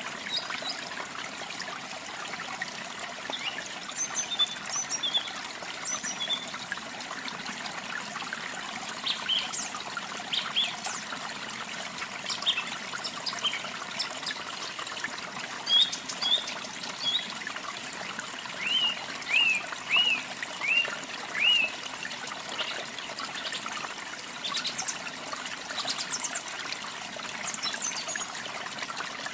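Water trickling steadily, with small birds chirping on and off over it. About two-thirds of the way through comes a quick run of five or six down-slurred chirps.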